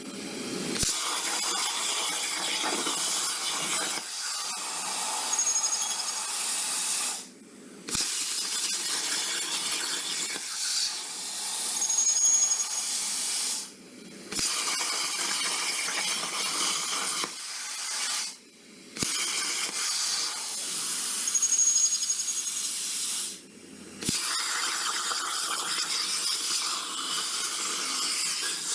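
Harbor Freight plasma cutter torch on a CNC table cutting: a steady hiss of the plasma arc and air. It stops four times for a fraction of a second and restarts with a click, as the torch pauses between cuts.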